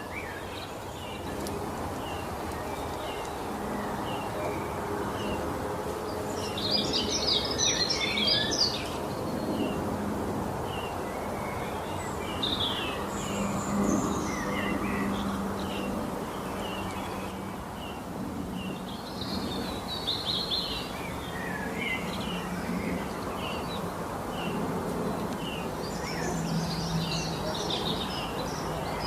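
Songbirds calling outdoors: one bird repeats a short chirp about once a second while others break in with busy twittering song three times, over a steady low background hum.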